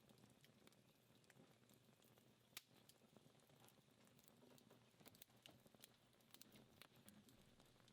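Faint crackling of a dying wood fire: scattered sharp pops and ticks from the burning logs over a low hiss, with one louder pop about two and a half seconds in.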